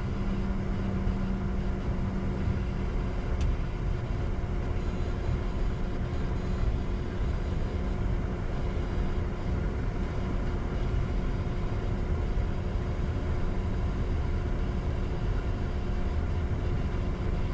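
Steady cockpit rumble and hum of a Bombardier Challenger 605 holding on the runway, its two turbofan engines idling. A low hum fades out within the first few seconds.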